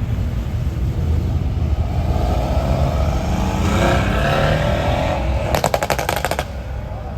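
A performance car's engine rumbling and then accelerating, its note rising. It is followed, about five and a half seconds in, by a rapid run of about ten sharp exhaust pops within a second.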